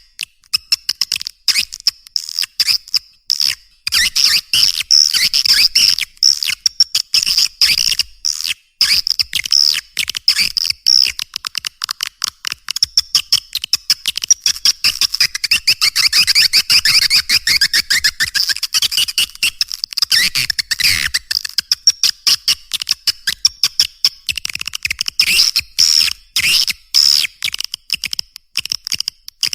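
Recorded swiftlet lure call: a dense, continuous stream of rapid, high chirps and twittering clicks from swiftlets. It is the calling sound played to draw swiftlets into a nesting house.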